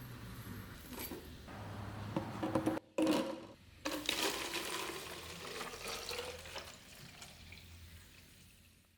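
Liquid splashing and sloshing in a container, the sort of sound made when a blade is put into a bath of rust remover or soda water. The sound is cut off twice, briefly, a few seconds in, then resumes and fades out.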